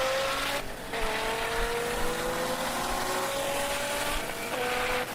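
Street-race cars' engines at full throttle, a Mustang and a Corvette, pitch climbing steadily through the gears. The pitch drops briefly at an upshift about half a second in and again near the end.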